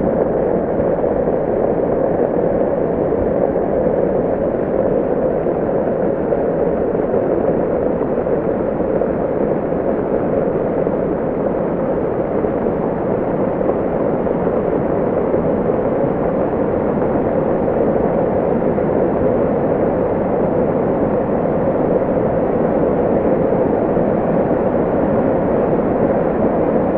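Heavy rain falling, a steady, unbroken noise with no distinct drops or knocks.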